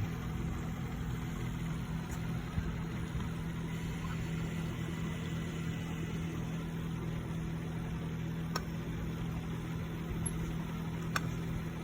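Dell Inspiron 3521 laptop's internal speaker giving out a steady low electrical hum at power-on. The noise comes with the laptop's no-display fault: while it sounds, the screen stays black.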